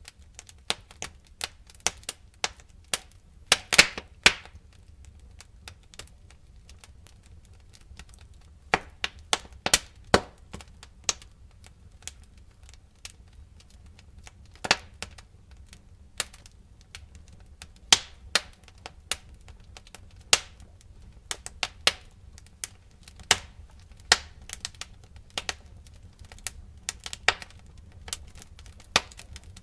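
Wood fire crackling: irregular sharp pops and snaps, some in quick clusters, over a low steady rumble of burning.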